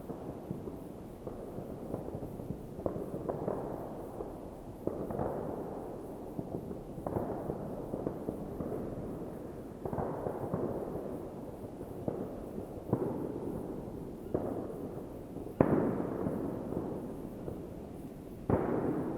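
New Year's Eve fireworks going off in a continuous crackle, with a sharp bang every second or two echoing over the lake. The loudest bang comes about three-quarters of the way in, and another sharp one near the end.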